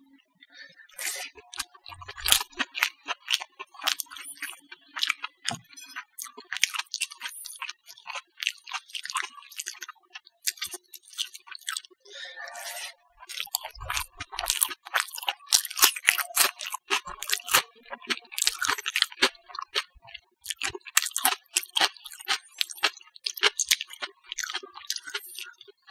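Close-up eating sounds of rice, mashed potato and omelet eaten by hand: steady chewing with many quick wet mouth clicks throughout.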